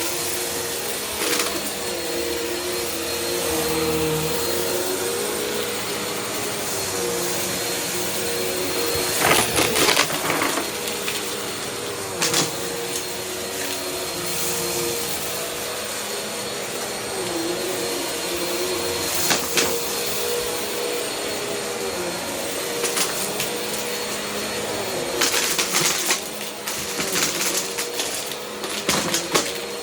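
Vacuum cleaner running with a steady motor whine whose pitch dips slightly now and then. Short crackles and rattles come as debris is sucked up, most around ten seconds in and over the last few seconds.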